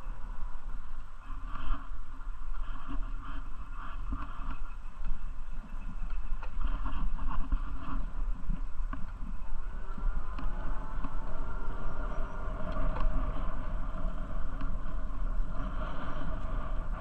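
Steady low rumble of wind and riding noise from a moving bicycle, with fainter, uneven sounds above it that take on a gliding pitch from about halfway through.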